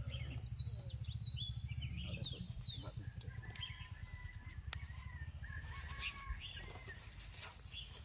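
Small birds chirping, with short high calls that glide in pitch, thickest in the first three seconds. A few steady whistle-like tones follow in the middle, over a low pulsing rumble.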